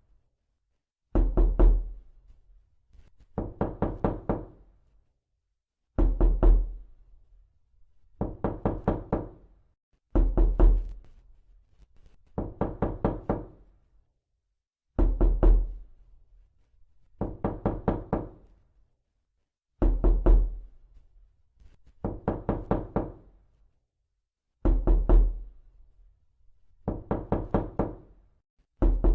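Repeated bursts of rapid knocking, each a quick run of about six to eight knocks, coming about every two seconds.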